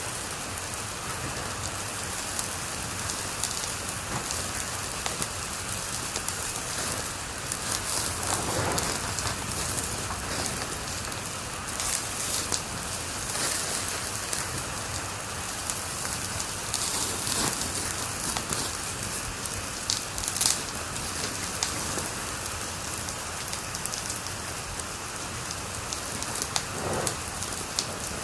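Wood fire in a fireplace crackling steadily over a soft hiss, with scattered sharp pops; the loudest comes about twenty seconds in.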